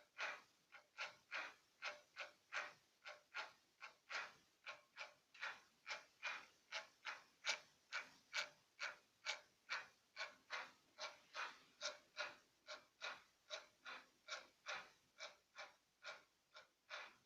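Homemade CNC machine's X-axis drive making short, evenly repeated moves, about three pulses a second.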